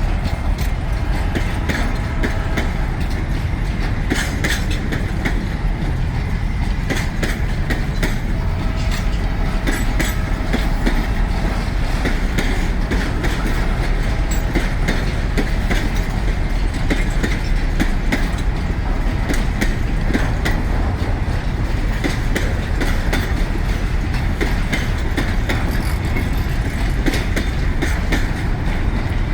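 Long freight train's wagons rolling past, a steady loud rumble with wheels clicking over the rail joints in a continuous clickety-clack.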